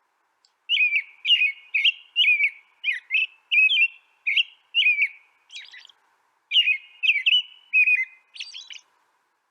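A songbird singing a rapid series of short, clear chirping notes, two to three a second, with a short break about two-thirds of the way through and a couple of harsher, buzzier notes mixed in.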